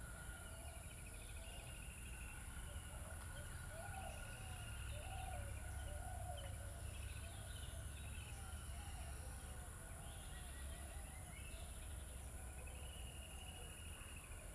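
Birds calling: many short, arching chirps repeating throughout, with higher trilled phrases every few seconds, over a steady low hum.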